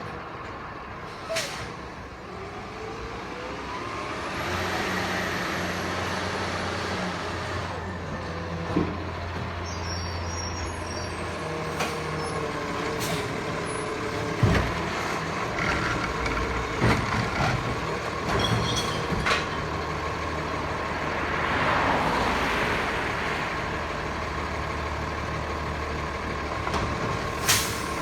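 Diesel McNeilus Zero Radius garbage truck running, its engine revving up for a few seconds about four seconds in. An air-brake hiss comes about two-thirds of the way through, and there are several sharp knocks and clanks.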